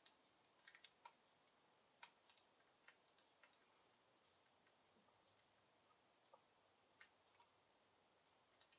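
Faint, irregular clicks of budgies' beaks pecking at chopped fruit and vegetables, thicker in the first few seconds and sparse after.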